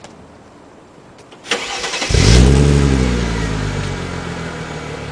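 Mercedes-Benz W203 C-Class engine starting through a Meisterschaft GT aftermarket muffler. A short crank comes about one and a half seconds in; the engine catches with a rev flare that falls back and settles into a steady idle.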